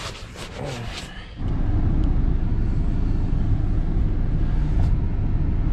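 A few faint scuffs and clicks, then, about a second and a half in, an abrupt switch to a steady low rumble: a car engine running, heard from inside the cabin as it warms up on a snowy morning.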